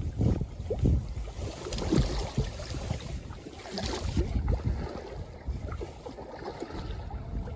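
Choppy lake water slapping and sloshing irregularly against the shore, stirred up by strong typhoon winds, with wind buffeting the microphone in uneven gusts.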